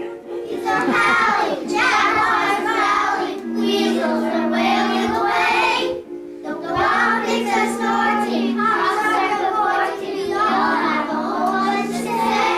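A group of young children singing a song together over a steady musical accompaniment, in the reverberant sound of a hall.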